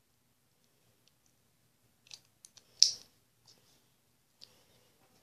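Packaging being handled during an unboxing: a few short crinkling clicks, spread out, with the loudest about three seconds in.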